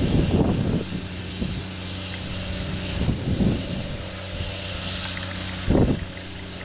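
An engine running steadily at an even pitch, with three short rushes of noise over it: one at the start, one about halfway through and one near the end.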